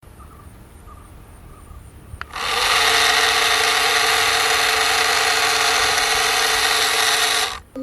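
Small power tool running steadily for about five seconds, starting a little over two seconds in and cutting off suddenly near the end.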